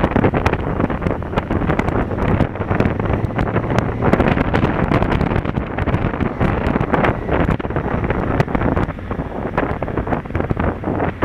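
Heavy wind buffeting the action camera's microphone while riding, with the Honda Africa Twin's parallel-twin engine running low underneath.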